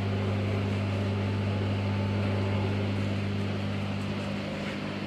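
Steady low electrical hum of aquarium equipment, with a hiss over it, easing slightly near the end.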